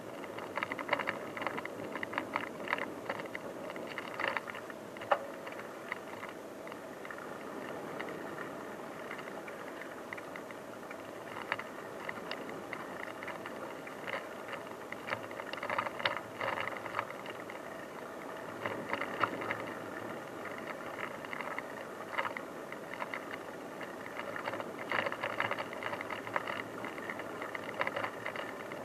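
Bicycle ridden over a rough dirt track: steady rolling tyre noise with irregular bursts of rattling and clicking from the bike and its load.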